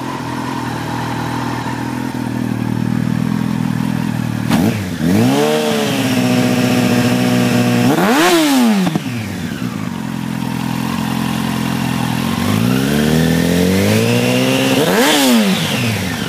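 Yamaha R1 sport bike's inline-four engine, still warming up after a cold start, idling and being revved: a quick blip about four seconds in, a rev held high for a couple of seconds, a sharp blip around eight seconds, then a slower climb and another sharp blip near the end, each falling back to idle.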